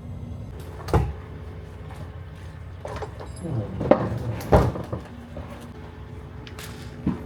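A handful of knocks and clunks, one about a second in, a cluster in the middle and one near the end, like a door or cupboard being handled, over a steady low hum.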